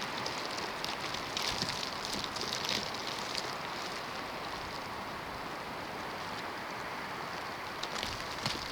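Snowstorm wind blowing with a steady rush, with scattered light ticks and patters in the first few seconds and again near the end.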